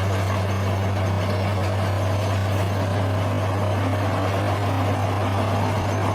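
Bulldozer's diesel engine running steadily, a constant low hum with dense mechanical noise on top.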